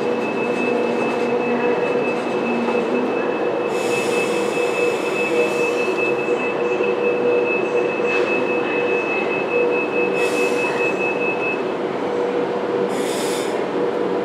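Virgin Trains Class 390 Pendolino electric train moving slowly along the platform: a steady running noise with a low hum and a thin high whine that stops about twelve seconds in. Three short high-pitched bursts come at about four, ten and thirteen seconds.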